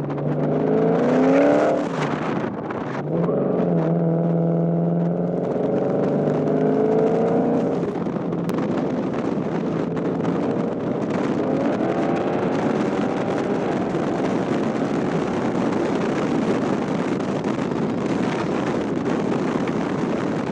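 A car engine accelerating hard, climbing in pitch through several pulls and dropping back with each gear change, over steady wind noise on the microphone. It is loudest about a second in.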